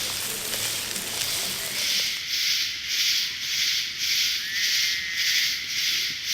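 Insects chirping in a chorus that starts about two seconds in, a high hiss that swells and fades in an even rhythm, a little under two pulses a second.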